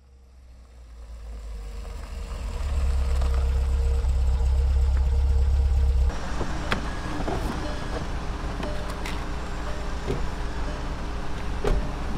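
Car engine running with a steady low rumble that fades in and grows over the first few seconds, then drops abruptly about six seconds in to a quieter idle. Over the idle come a few sharp clicks and knocks as someone gets out of the car onto concrete.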